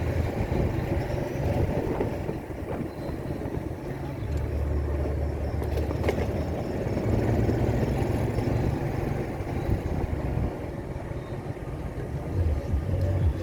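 Motorcycle engine running during a ride, its low note rising and falling in strength, under a steady rushing noise.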